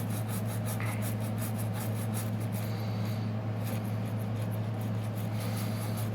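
Toothbrush scrubbing quickly back and forth with alcohol over a water-damaged phone's display assembly, about five strokes a second, cleaning off corrosion. A steady low hum runs underneath.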